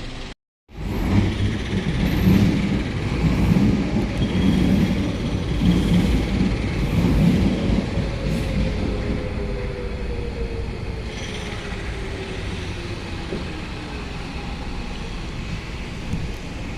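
A train running through with a steady low rumble, and a whine that falls slowly in pitch partway through.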